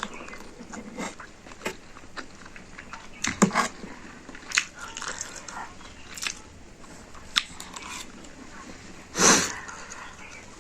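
Close-up mouth sounds of someone eating spicy instant noodles: irregular chewing, lip smacks and small wet clicks, with one louder, longer noise about nine seconds in.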